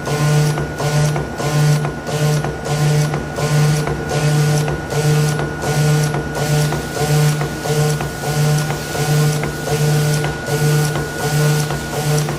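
CNC blade-cutting machine running while cutting foam: an even mechanical rhythm of about two pulses a second over a steady high whine.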